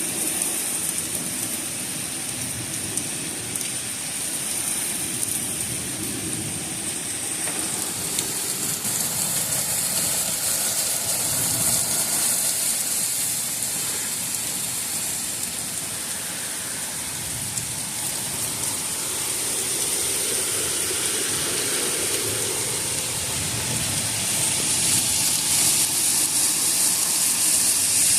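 Heavy thunderstorm rain pouring steadily, with gusty wind; the rain grows louder near the end.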